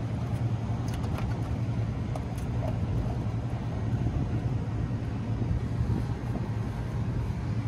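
Steady low machinery hum and rumble with no change in level, with a few faint light clicks.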